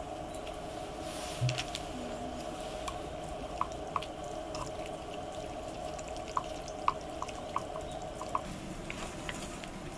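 Water dripping: single drops land at irregular intervals, each a short plink, over a steady background.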